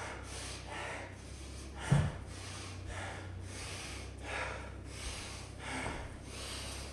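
A man breathing hard after exertion, deep breaths in and out about once a second, partly through the nose. There is one short, louder breath or grunt about two seconds in.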